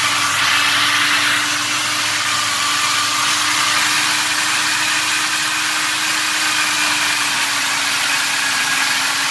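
Ford 302 V8 crate engine in a 1967 Mustang running steadily at a raised idle with no load, as required for camshaft break-in on a freshly built engine. The pitch drops slightly about seven seconds in.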